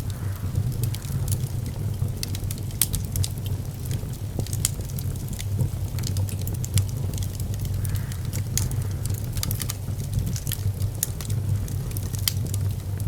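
Wood fire burning in a fireplace: irregular sharp crackles and pops of burning logs over a steady low rumble.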